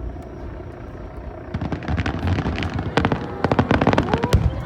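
Fireworks display: over a steady low drone, a dense run of sharp cracks and bangs sets in about a second and a half in and keeps building. Whistling tones slide up and down among the cracks in the second half.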